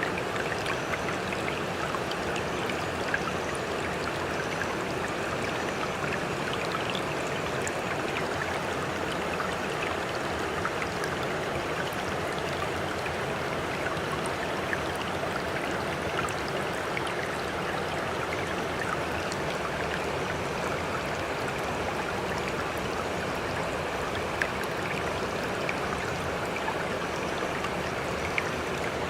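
Steady rush of moving water, full of small splashes and crackles, with no rise and fall of separate waves.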